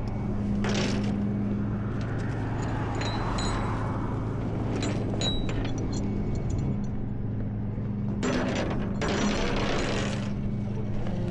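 Tow truck engine idling with a steady low hum, under short clicks and bursts of scraping from ratchet straps being worked and tightened on the flatbed.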